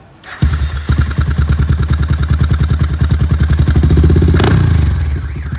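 Honda XR650L's single-cylinder four-stroke engine breathing through a full aftermarket exhaust: it fires up about a third of a second in and settles into a lumpy, pulsing idle. The revs build to a blip, a sharp pop sounds as the throttle closes near the end, and the engine drops back to idle.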